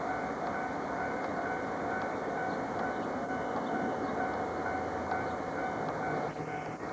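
Diesel train running at a station: a steady, dense rumble with a constant hum. A high tone pulses about twice a second underneath.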